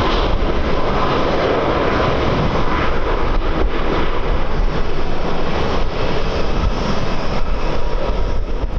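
Airliner jet engines running loud and steady, with a faint thin whine over the noise, and wind buffeting the microphone.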